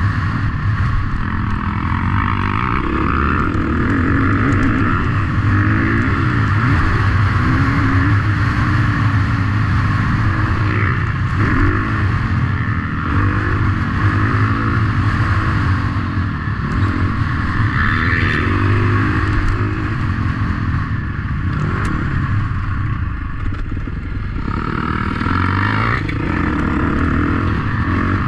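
Motocross bike engine running hard, its revs rising and falling again and again as it accelerates and backs off.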